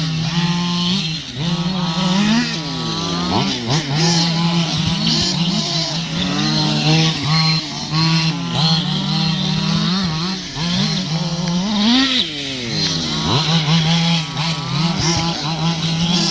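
Several radio-controlled cars running on a track, their motors repeatedly revving up and falling back in overlapping rising and falling whines over a steady hum.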